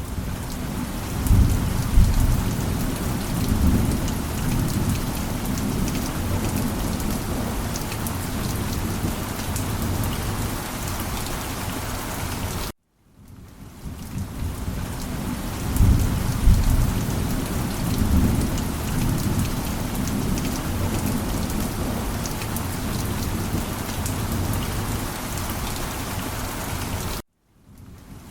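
Steady rain with low rumbles of thunder swelling a second or two in and again about sixteen seconds in. The same stretch of rain-and-thunder recording plays twice, broken by a brief silent gap about thirteen seconds in and another near the end.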